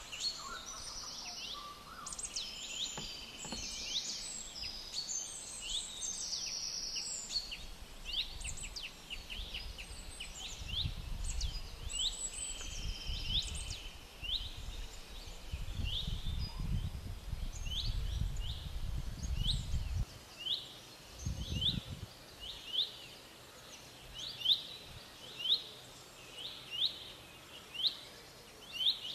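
Birds chirping and calling, with quick high notes crowded together over the first two-thirds; after that one bird repeats a short, sharp note about once a second. A low rumble runs through the middle part.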